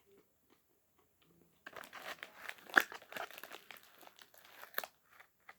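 Plastic candy packaging crinkling and crackling as it is handled, starting about a second and a half in, with one sharp crackle about halfway through, then dying down near the end.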